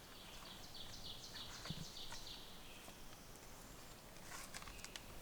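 A small bird singing in the background: a faint run of short, high repeated notes, about four a second, for roughly two seconds.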